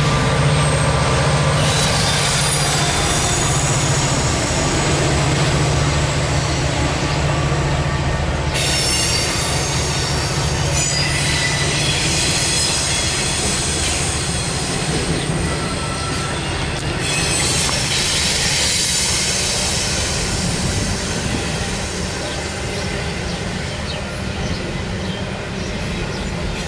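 Double-stack intermodal container cars of a freight train rolling over a steel girder bridge: a steady low rumble with high-pitched wheel squeal that comes and goes in stretches of a few seconds, slowly easing toward the end.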